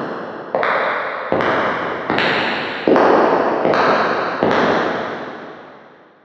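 Footsteps walking at a steady pace, a little more than one step per second, each step a hard impact with a long echoing tail. The steps stop about four and a half seconds in, and the last echo dies away over the next two seconds.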